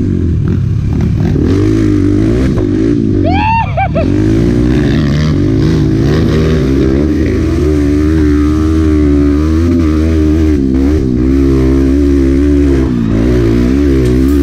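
Honda Bros 125 single-cylinder four-stroke engine revving up and down as the bike is ridden. A brief warbling sweep about three and a half seconds in.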